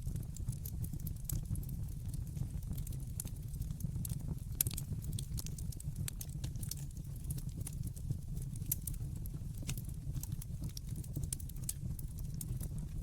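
Wood fire burning in a fireplace, with a steady low rumble and irregular sharp crackles and pops from the burning wood.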